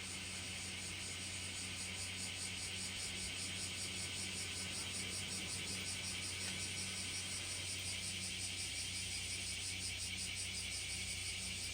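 Outdoor summer ambience: a fast, evenly pulsing high-pitched buzz over a steady low hum.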